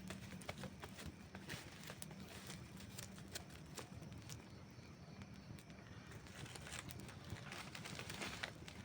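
Wood campfire crackling: irregular sharp snaps and pops of burning wood over a low, steady rumble of the flames, with a denser cluster of pops near the end.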